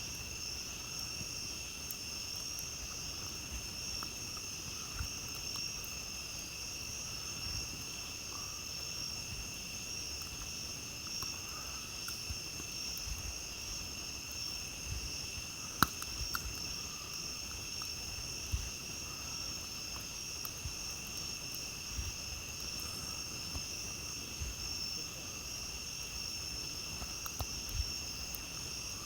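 A steady chorus of night insects, a constant high trilling at two pitches, with scattered sharp pops from a crackling campfire. The loudest pop comes about 16 seconds in.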